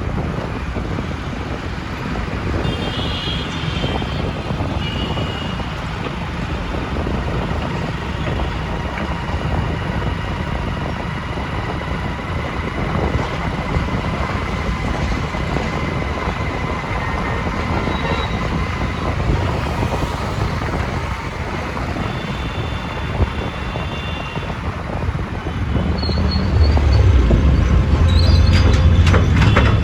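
Road and traffic noise from a vehicle driving through city traffic: a steady rumble with a few short high tones, growing louder and deeper near the end.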